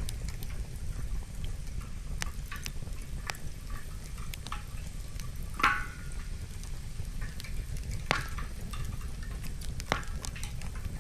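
Wood fire burning, the logs crackling with scattered sharp pops, the loudest about halfway through and two more near the end, over a steady low rumble.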